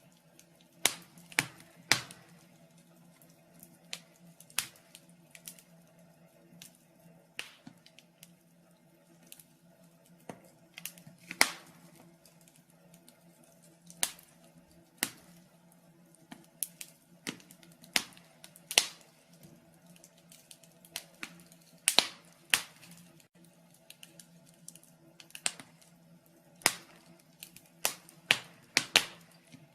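Wood fire in a fireplace crackling: sharp, irregular pops and snaps, sometimes in quick clusters, over a faint steady low hum.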